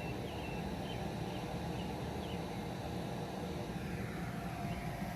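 Electric bounce-house blower running steadily as the inflatable fills with air.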